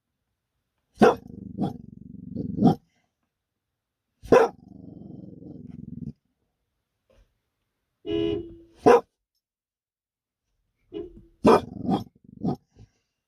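A dog barking in bursts of sharp barks, with low growling between some of them.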